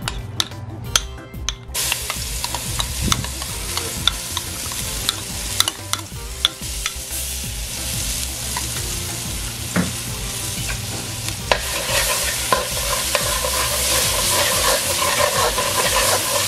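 Curry paste frying in hot oil in an aluminium pot over a gas burner on high: a steady sizzle that grows louder in the second half, with a metal spoon clicking and scraping against the pot.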